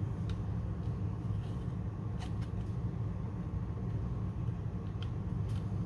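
Steady low background hum with a few faint, light clicks of plastic model-kit parts being handled.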